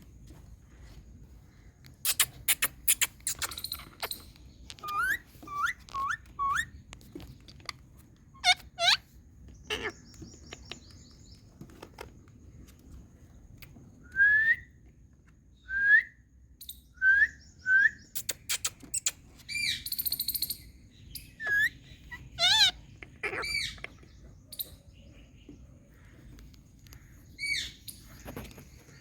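Indian ringneck parakeet chirping and whistling: a run of short, sharp rising chirps in small groups of three or four, mixed with clicks and a few warbling calls, then a quieter pause before one last call near the end.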